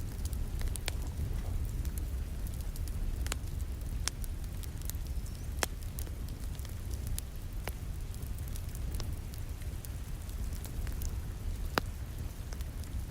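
Wood fire crackling, with sharp pops scattered irregularly over a steady low rumble, one pop louder near the end, mixed with the even hiss of rain against a window.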